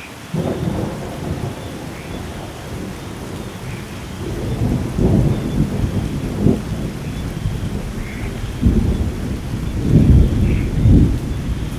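Steady rain falling during a thunderstorm, with thunder rolling over it. A sudden rumble breaks in about half a second in, and the thunder swells twice more in the second half, loudest near the end.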